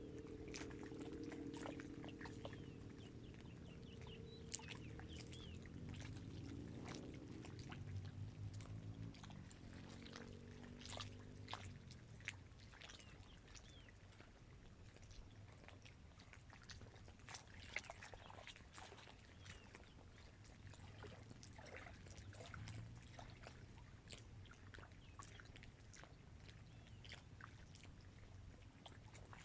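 Small waves lapping faintly against the dam's shore, with irregular little splashes and clicks. For about the first twelve seconds a distant motor hums underneath, shifting in pitch and then fading away.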